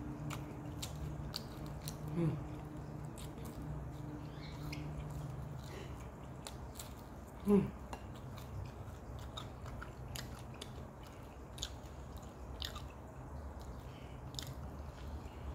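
Close chewing and wet mouth clicks of a person eating rice and fried food by hand. A low steady hum runs under the first few seconds. Two brief vocal sounds come about two seconds in and, louder, about seven and a half seconds in.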